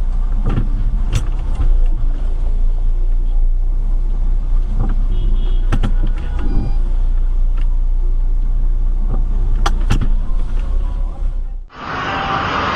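Car cabin noise picked up by a dashcam: a steady deep road and engine rumble, with several sharp knocks and clicks scattered through it. Near the end it cuts off abruptly and a brighter, hissier recording of car noise begins.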